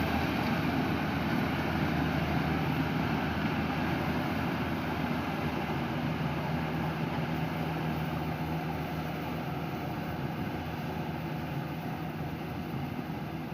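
Engine of rice-harvesting machinery running steadily with a low hum, slowly growing fainter.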